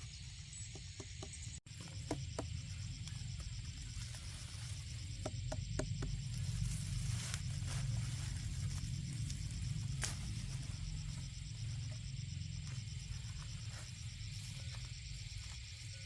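Insects trilling steadily in a fast even pulse, over a low rumble of wind on the microphone, with a few short chirps.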